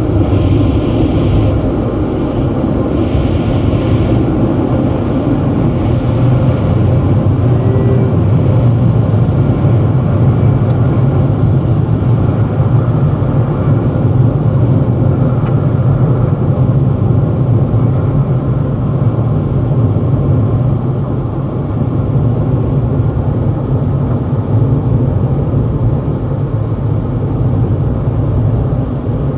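Automatic car wash machinery heard from inside the car: a steady, loud rushing noise with a heavy low rumble over the car.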